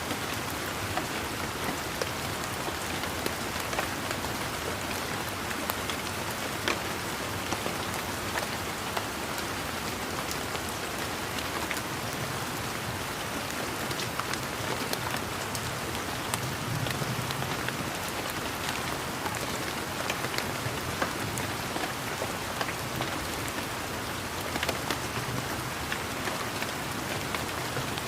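Steady rain falling on leaves and surfaces in a garden, an even hiss with many individual drops ticking and plinking close by.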